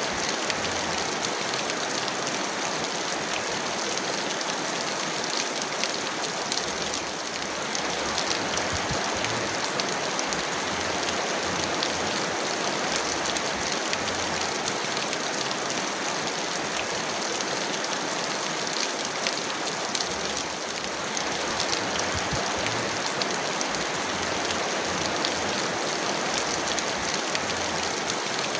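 Heavy rain falling steadily, a dense even hiss with individual drops pattering through it, easing very slightly twice.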